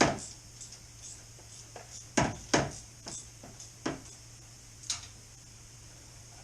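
Metal hand tools clinking and clanking in irregular knocks: a loud one at the start, two close together a little past two seconds in, then lighter ones near four and five seconds in, over a low steady hum.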